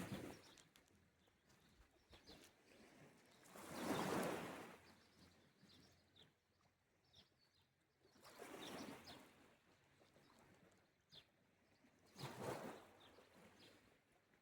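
Small sea waves washing onto the shore, one swell about every four seconds, three times. Faint bird chirps come between them.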